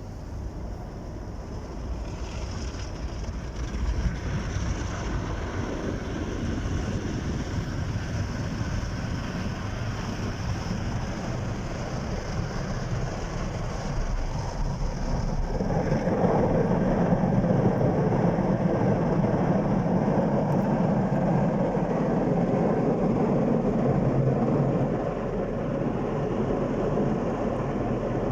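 Car wash running: a steady, noisy rumble of machinery that grows louder about halfway through.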